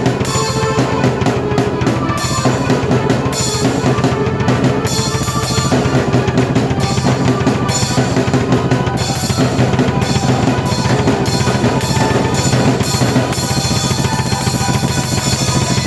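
Drum kit with rapid bass drum and snare strikes played together with sustained keyboard chords, by one performer playing both at once: fast, dense rock-style music.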